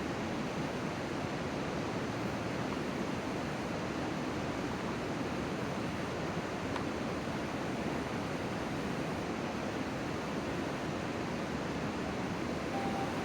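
Steady, even outdoor rushing noise with no distinct events, with a faint short steady tone near the end.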